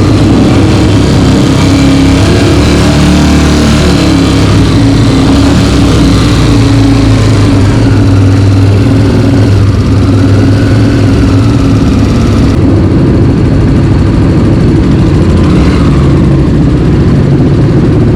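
Single-cylinder dirt bike engine running steadily at a fairly even speed, loud and close.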